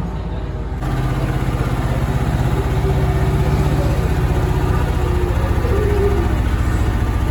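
Amusement-park train's locomotive engine running with a fast, even pulse, getting louder about a second in.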